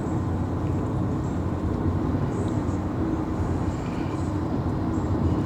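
Steady low rumble, even throughout, with no clear events.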